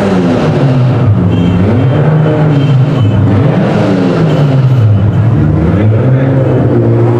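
Car engine revved several times, its pitch rising and falling repeatedly, then holding a steadier pitch near the end.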